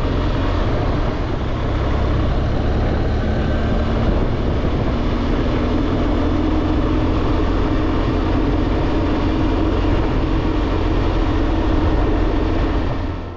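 BMW R1200GSA boxer-twin motorcycle on the move, heard as steady wind rush with the engine's hum, its pitch rising slightly about five seconds in. The sound fades away near the end.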